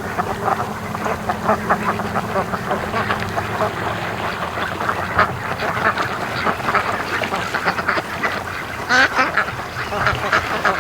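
A flock of domestic ducks quacking continuously, many calls overlapping, with a louder cluster of quacks about nine seconds in. The quackers are Pekin ducks, since Muscovies hardly quack.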